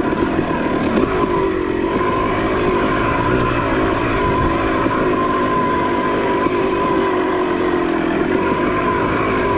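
Suzuki dirt bike engine running at a steady trail-riding pace, its pitch holding fairly even with only slight rises and falls.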